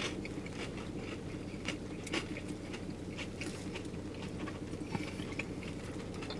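Someone chewing a crispy fried chicken tender, small crunches and mouth clicks coming at irregular moments over a steady low hum.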